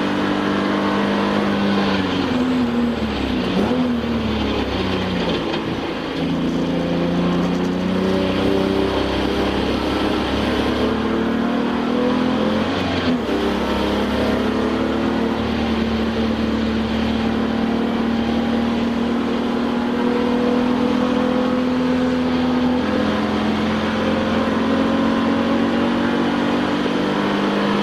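Touring race car's engine heard from inside the cabin under racing load. Its pitch falls and comes back up about three seconds in as the driver brakes and downshifts, dips briefly again around the middle, and otherwise holds high at full throttle.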